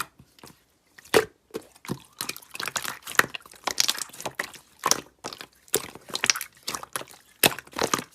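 Slime being squeezed and worked by hand, giving irregular sharp clicks, pops and crackles in quick succession.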